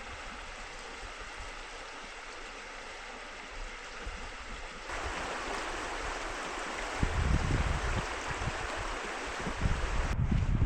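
River water flowing, a steady rushing noise, with wind buffeting the microphone in low gusts in the second half.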